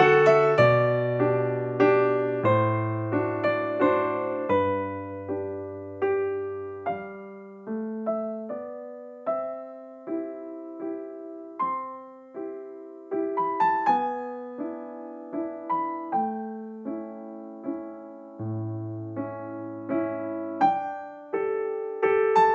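Background piano music: a gentle melody of single notes over a slow bass line, each note struck and fading.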